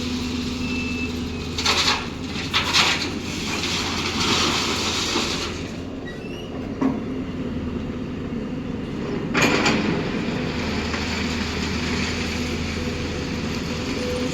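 A JCB backhoe loader's diesel engine running steadily while it loads crushed stone ballast into a truck. Four short rattling crashes of stone are heard, the loudest about nine and a half seconds in.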